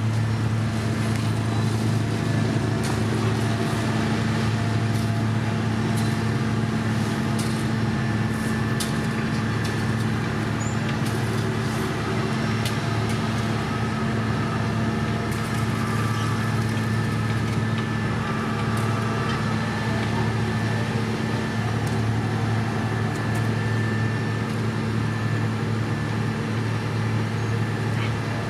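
Heavy diesel construction machinery running steadily with a constant low hum, with scattered light clicks and knocks over it.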